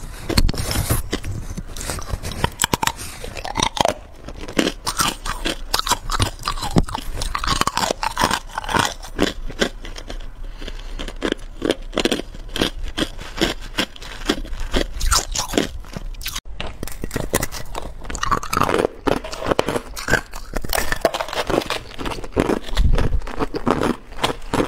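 Hard clear ice being bitten and chewed close to the microphone: a dense, irregular run of loud cracks and crunches.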